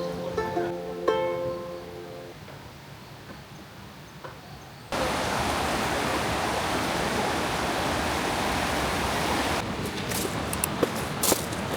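Plucked-string background music fades out in the first couple of seconds. About five seconds in, a steady rush of water starts abruptly. Near the end it gives way to a softer wash with scattered sharp clicks and taps.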